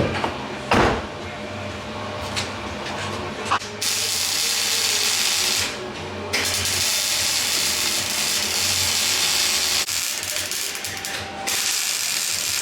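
A metalworking tool on bodywork: a few sharp knocks, then a loud hissing, buzzing tool running in bursts of a few seconds with short breaks between.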